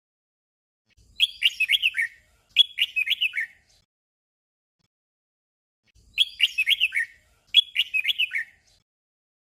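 Red-whiskered bulbul singing short phrases of quick, bright notes, in a doubled pattern: two phrases back to back about a second in, a pause, then another pair of phrases.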